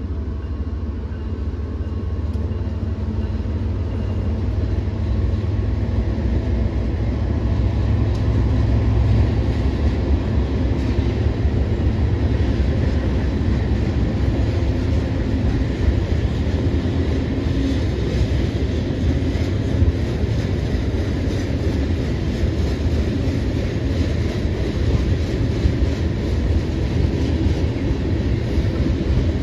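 BNSF freight train passing at close range: diesel locomotives and rolling freight cars, including covered hoppers, make a steady, loud low rumble of engines and wheels on rail.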